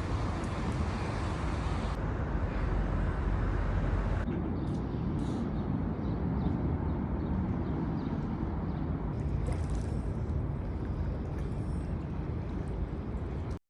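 Steady outdoor background noise with a low rumble, changing abruptly about two and four seconds in and cutting off suddenly at the end.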